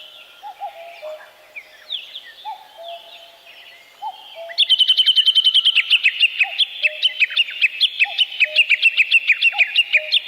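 Forest birdsong: a low two-note call, the second note lower, repeats about once a second throughout, and about four and a half seconds in a second bird starts a loud, fast, high-pitched trilling song that carries on to the end.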